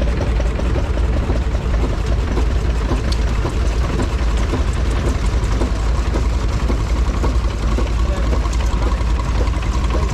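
Vintage stationary engine running steadily with a constant low rumble; a faint thin whine joins about four seconds in.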